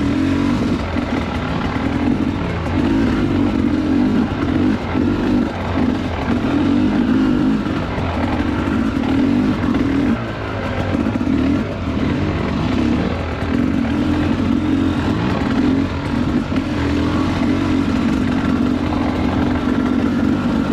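Two-stroke enduro dirt bike engine, heard close up while riding a slippery trail, its revs rising and falling again and again as the throttle is opened and rolled off.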